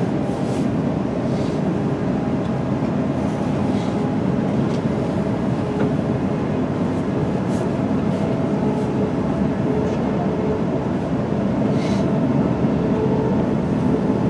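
Cabin noise inside a British Rail Class 350 Desiro electric multiple unit running at speed: a steady rumble of wheels on rail with a faint hum of the electric drive. A few light ticks and rattles come through here and there.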